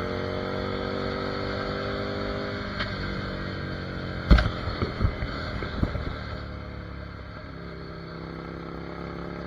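Ducati Monster 797's air-cooled L-twin engine pulling under way, its pitch rising slowly, then easing off to a lower, quieter run about halfway through. A few sharp thumps come about four to six seconds in.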